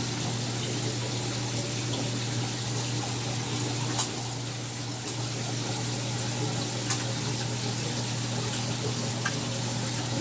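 Saltwater aquarium system running: a steady rush of circulating water over a low, steady pump hum. There is a sharp click about four seconds in and a fainter one near seven seconds.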